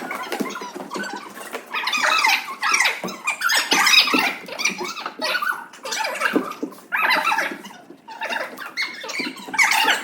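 Children's high-pitched shouts and squeals echoing in a small room, a steady jumble of many short cries.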